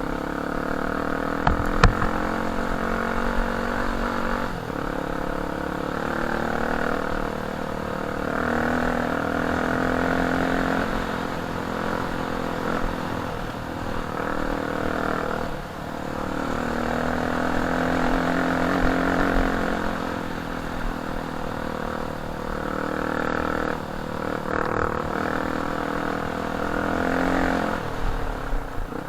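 Off-road dirt bike engine under way, its pitch rising and falling every few seconds as the throttle opens and closes. A sharp knock about two seconds in.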